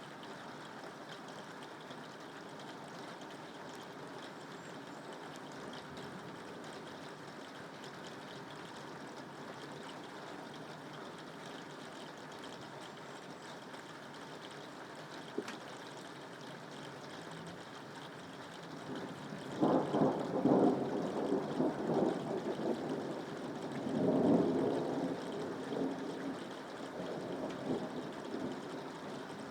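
Steady rainfall. About two-thirds of the way through, thunder rumbles in, crackling at first, swells a second time a few seconds later, then slowly fades.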